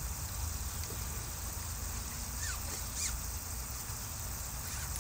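Outdoor ambience: a steady low rumble with a couple of short, falling bird chirps about halfway through.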